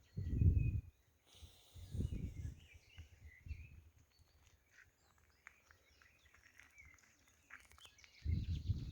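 Wild birds chirping faintly and intermittently in woodland, broken by louder low rumbling bursts near the start, around two seconds in, and again from about eight seconds on.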